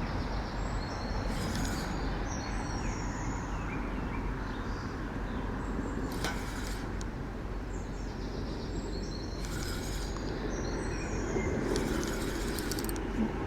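Steady low engine rumble in the background, with small birds chirping throughout. Several short bursts of hiss come and go.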